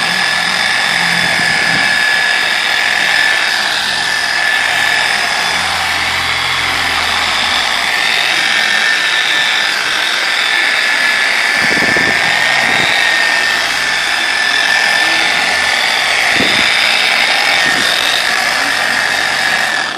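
Porter-Cable 7424 dual-action polisher running steadily at speed 3 with a high, even whine, spreading a thin coat of paint sealant under light pressure.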